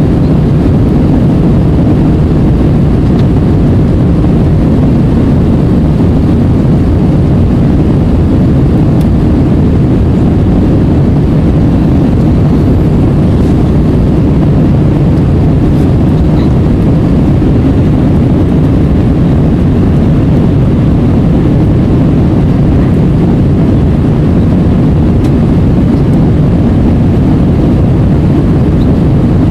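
Airbus A320 jet noise, a loud, steady low rumble of engines and rushing air that does not change.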